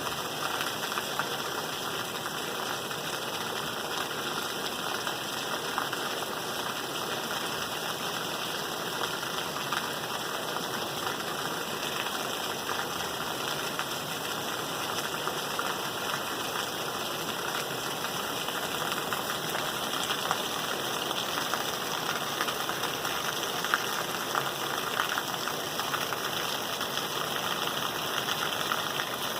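Steady rain falling: a dense, even hiss flecked with small drop ticks.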